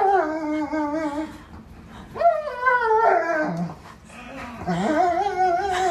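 A dog whining in three long, drawn-out calls whose pitch wavers up and down.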